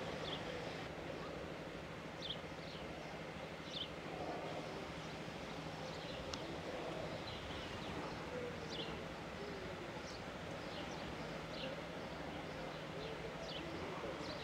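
Outdoor ambience: birds giving short, high chirps about once a second over a low, steady hum.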